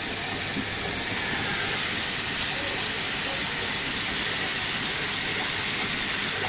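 Masala paste frying in oil in a pan, a steady sizzling hiss; the oil has separated from the spices, the sign that the masala is nearly done.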